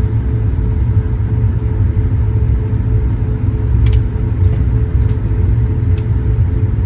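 Steady low rumble of an Airbus A220-100's Pratt & Whitney PW1500G geared turbofans and airflow heard from inside the passenger cabin, with a constant hum over it. A few faint clicks come four to six seconds in.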